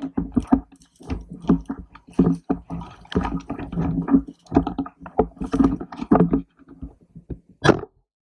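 Irregular crunching and rustling from a player moving on foot with a rifle-mounted camera, then a single sharp crack near the end.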